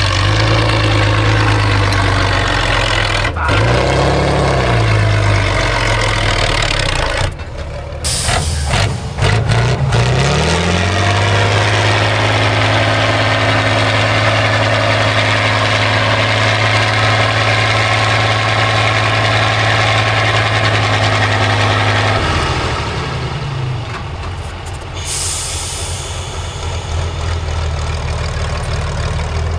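Heavy truck-trial truck's diesel engine revving under load. It rises and falls for the first several seconds, then holds high and steady for about ten seconds before easing off near the end. Short hisses come about a third of the way in and again late on.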